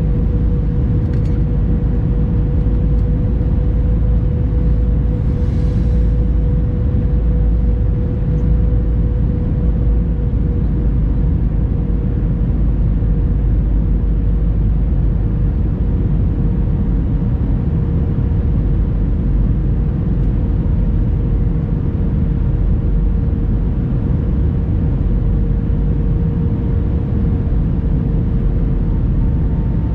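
Airbus A321-200 cabin noise: a loud, steady rumble of engines and airflow with a steady hum that sinks very slightly in pitch over the half minute.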